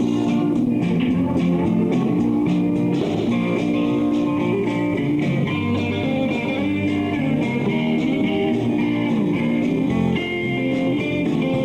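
Live rock band playing a passage with no singing: electric guitar to the fore over bass and drums.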